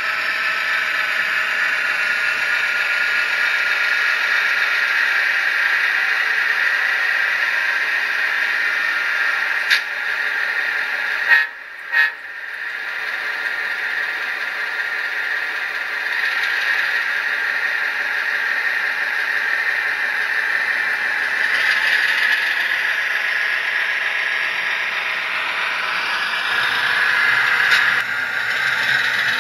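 Model locomotive sound decoder playing Fairbanks-Morse 38-D diesel engine and horn sounds through a small speaker, thin with little bass. There are a few sharp clicks and a brief dip about ten to twelve seconds in.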